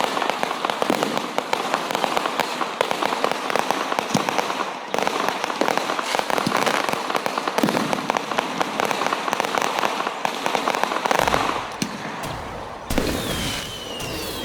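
Aerial fireworks crackling densely, a rapid run of many small pops, with deeper booms of shells bursting about eleven seconds in. A new burst follows, and then a thin whistle falling in pitch near the end.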